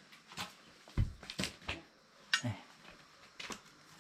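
Irregular light knocks, clicks and clatters of hard objects being handled and set down, with a duller thud about a second in and another near the middle.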